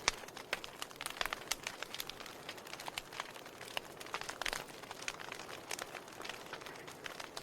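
Wood fire burning in a fireplace: steady soft hiss with frequent irregular crackles and pops from the burning logs.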